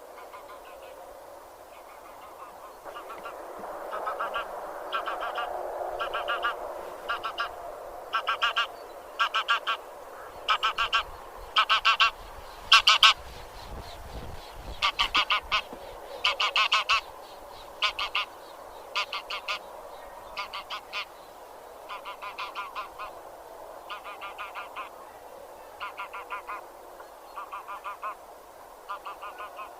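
A flock of Anser geese (grey geese) honking: a long run of short nasal honks, one or two a second and loudest about halfway through, over a steady background chatter from the flock.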